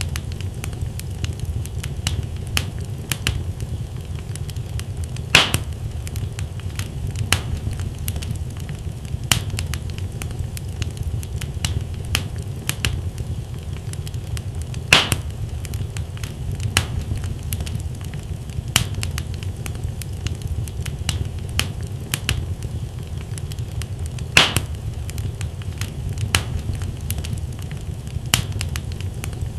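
Wood fire in a fireplace, logs crackling and popping irregularly over a steady low rumble of flame, with a few louder pops.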